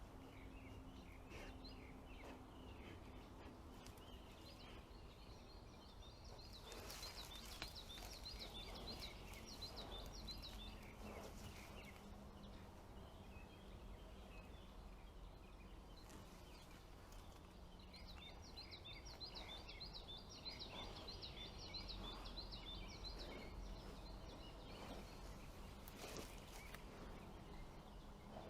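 Faint forest ambience: small songbirds chirping, with two stretches of about five seconds each of a rapid, high, repeated song. There are a couple of brief faint clicks over a low steady background hiss.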